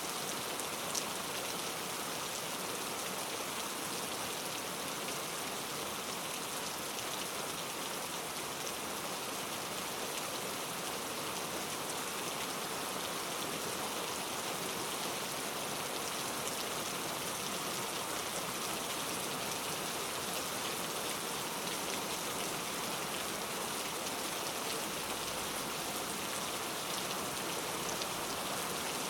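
Steady rain falling, an even hiss with many small drop ticks; no thunder is heard.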